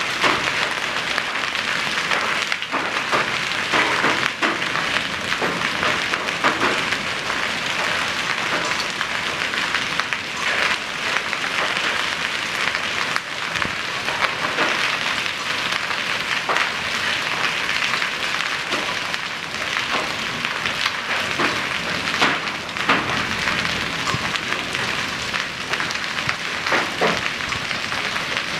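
Heavy rain and hail pouring down steadily, with many scattered sharp hits of hailstones striking hard surfaces.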